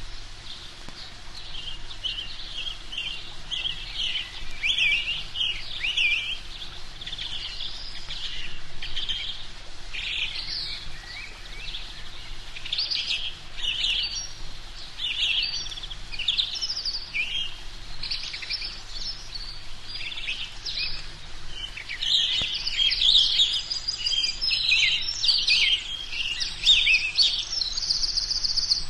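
Small birds chirping and twittering, with many short calls overlapping and growing busier and louder over the last several seconds.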